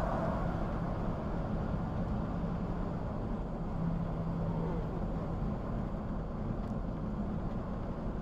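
Steady road and engine noise of a vehicle driving on a highway, even throughout with a faint low hum.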